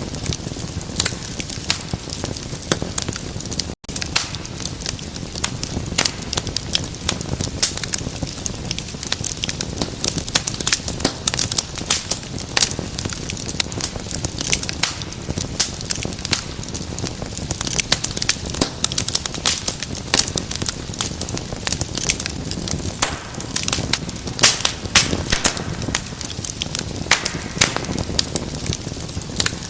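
Wood fire burning, with dense, irregular crackles and pops over a steady low rumble of flame. There is a split-second dropout about four seconds in.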